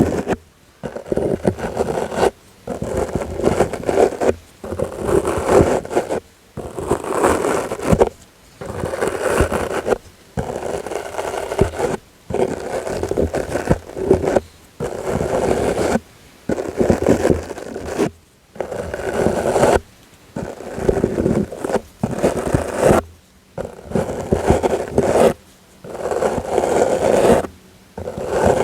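A soft brush swept in repeated strokes for ASMR: about fifteen scratchy swishes, each a second or two long, with brief pauses between them.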